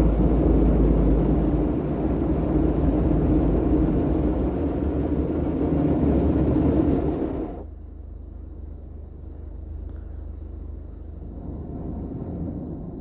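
Istobal Flex5 automatic car wash machinery working over a car with its top brush: a loud, steady rushing noise that drops off suddenly about seven and a half seconds in, leaving a quieter low hum.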